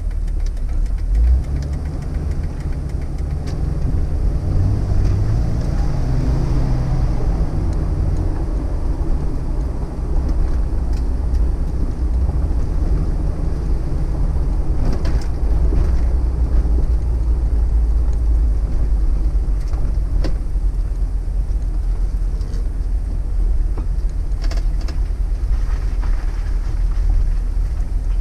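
Jeep TJ's 4.0-litre inline-six engine running as the Jeep drives at low speed, heard from inside the cab as a steady, deep drone mixed with road rumble. Its pitch rises briefly a few seconds in as it pulls away, and a few faint clicks sound later on.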